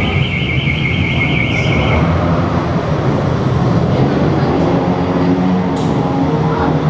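A warbling alarm sounds for about the first two seconds. Under it, and then alone, several motorcycle engines run steadily in a noisy crowd.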